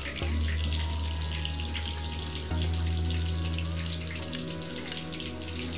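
Hot oil sizzling and crackling around a whole eggplant deep-frying in a small karahi, an even, dense crackle. A steady low hum runs underneath it.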